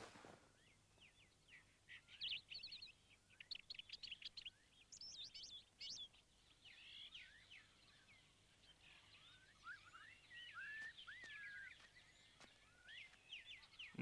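Faint jungle birdsong: several birds giving quick chirping trills and short whistling calls that rise and fall.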